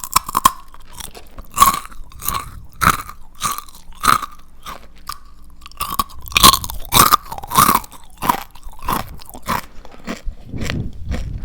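Close-miked crunchy chewing of fried chicken skin, a run of sharp crisp crunches about one to two a second, loudest in the middle.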